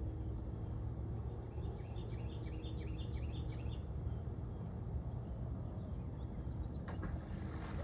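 A bird calling a quick run of short, falling chirps, several a second, over a steady low rumble, with a brief burst of noise near the end.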